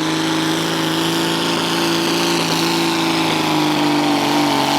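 Naturally aspirated super stock pulling tractor's engine running flat out under load on a pull, holding a steady high note that begins to sag near the end as the pass finishes.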